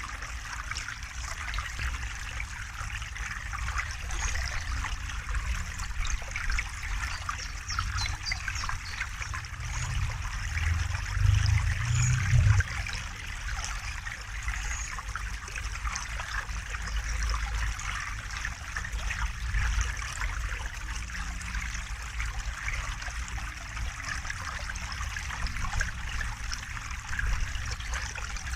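A river running, a steady trickling, rushing water sound, with a low rumble that swells for a couple of seconds about halfway through.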